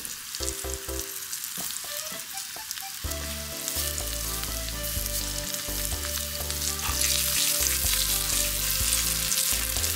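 Potato-starch-coated burdock root pieces sizzling and crackling as they shallow-fry in rice oil in a frying pan; the sizzle grows louder a few seconds in and again near the end as more pieces go into the oil.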